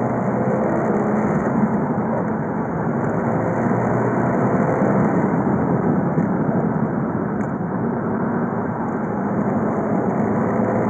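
VW Golf V 2.0 TDI four-cylinder diesel (BKD) running under way, a steady engine drone mixed with road noise.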